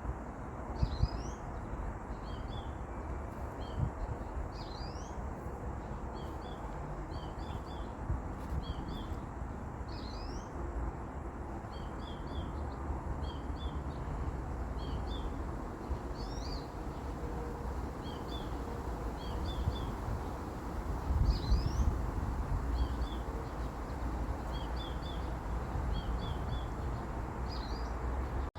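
A small bird calling over and over: short high chirps, often in quick clusters of two or three, with an upward-sweeping note every few seconds, over a steady low rumble.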